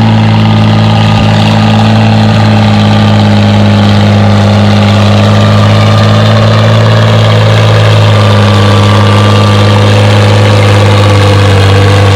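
Oliver 77 tractor engine running hard at a steady pitch while it pulls a weight-transfer sled down the track, its note just starting to sag at the very end as the load builds.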